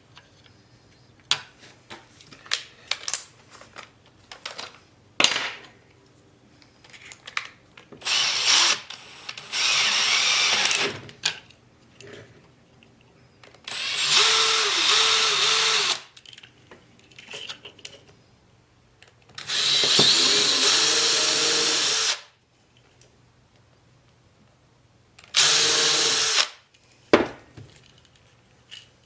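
A power drill runs in five short bursts of one to three seconds each, its speed rising and falling with the trigger. Clicks and knocks from handling the work fall between the bursts.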